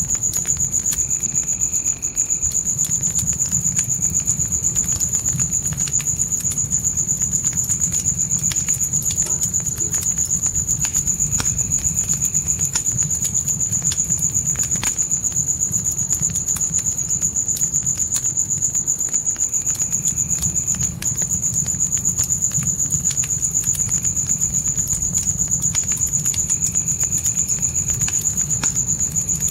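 Crickets trilling steadily at one high pitch over a crackling fire, with scattered sharp pops and a low rumble from the flames.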